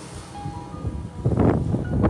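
Faint background music, then wind buffeting the microphone in a loud, rough rumble from a little past halfway.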